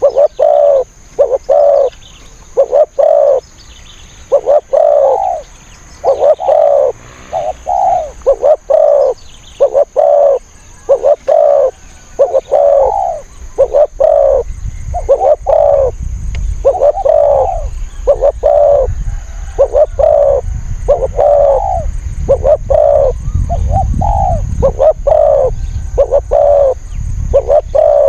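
Spotted doves cooing repeatedly in short, quick phrases of deep coo notes. A low rumble joins in about halfway through and continues under the calls.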